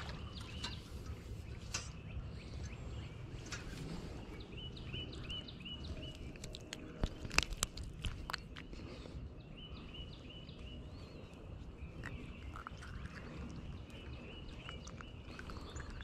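A songbird singing two runs of short, quickly repeated chirps, about five seconds apart, over a low wind rumble. A few sharp clicks come in the middle and are the loudest sounds.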